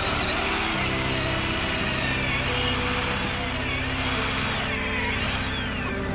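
An electric power tool, such as a drill or grinder, running with a high whine that rises and falls in pitch, over background music with steady low held notes.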